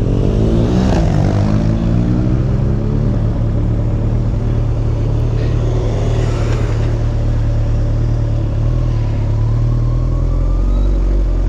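Kawasaki Ninja ZX14R inline-four motorcycle engine running on the road, with the engine note shifting in the first few seconds and then holding steady.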